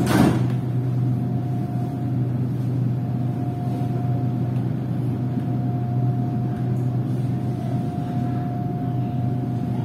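Inside the cabin of an SRT Red Line electric commuter train: a steady low hum with a thin constant whine above it. There is a brief clatter right at the start.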